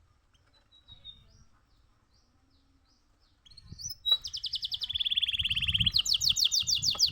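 Canary singing: a few faint chirps, then from about four seconds in a loud song of rapid trills, a fast run of repeated notes that changes near six seconds into a quicker series of repeated falling notes.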